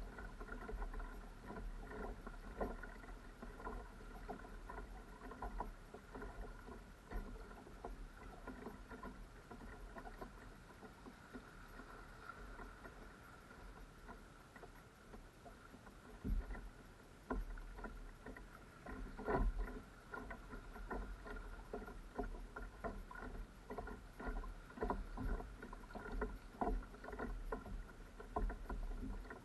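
Sea kayak being paddled, with water splashing and lapping at the hull and paddle in small irregular splashes and knocks. A few louder knocks come about two-thirds of the way through.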